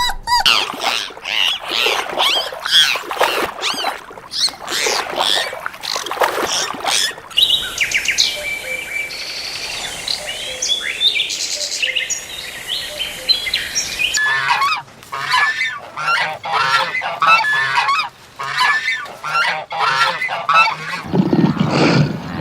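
A flock of birds calling loudly over one another in quick, repeated calls. A stretch of thinner, higher calls comes in the middle, and the flock calls in full again after it; a lower, deeper animal sound cuts in near the end.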